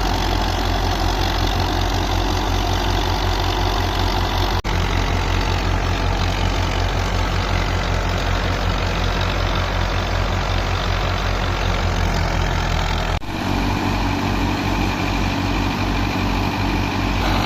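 Belarus 510 tractor's diesel engine running steadily while driving a wheat thresher, a loud continuous machine din with a low pulsing engine beat. It breaks off briefly twice, about four and a half and thirteen seconds in, and after the second break the engine's beat is lower and more distinct.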